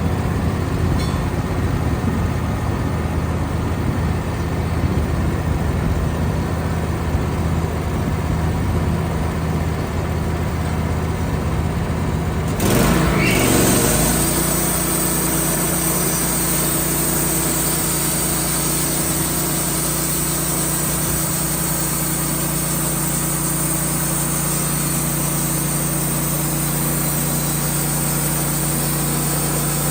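Band sawmill's engine running steadily. About 13 seconds in its pitch rises with a brief louder surge, then it settles to a steady, higher, even note with a hiss from the running blade.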